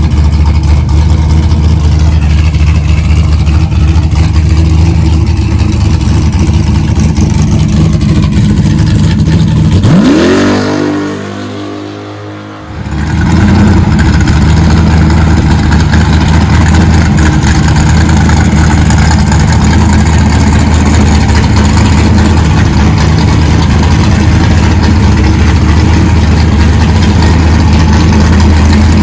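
A 408 V8 engine in a Fox-body car running loud and steady under load. About ten seconds in it drops off briefly with a rising whine, then comes back to a steady drone.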